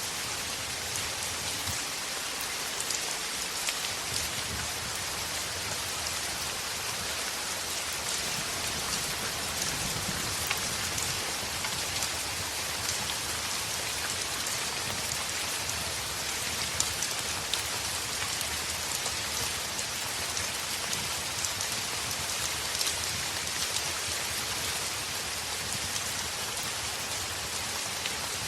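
Heavy rain falling on a window: a steady dense hiss with scattered sharp ticks.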